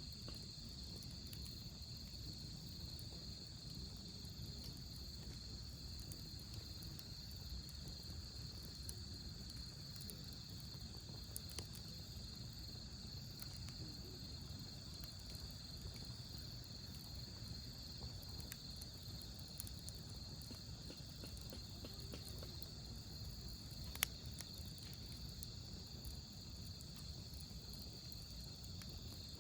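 Wood fire burning with faint scattered crackles and one sharper pop near the end, over a steady high chirring of night insects.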